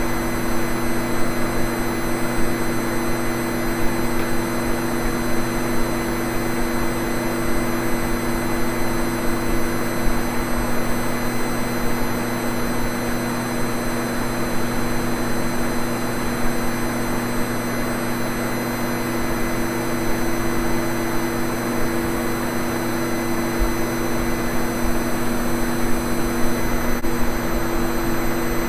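Vacuum cleaner running steadily: an even rushing of air over a constant motor hum.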